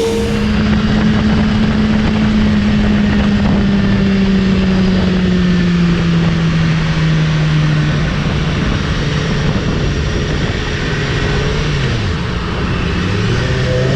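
BMW S1000RR's inline-four engine running at steady cruise, its note sagging slowly, then dipping briefly and climbing back near the end, under a heavy rush of wind noise.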